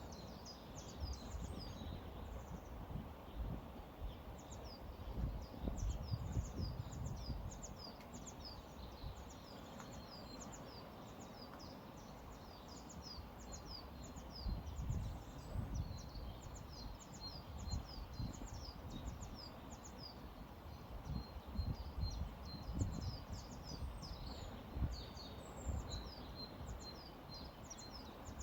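Small birds chirping constantly in quick, high, down-slurred notes over the steady rush of a flowing river, with low rumbling gusts now and then.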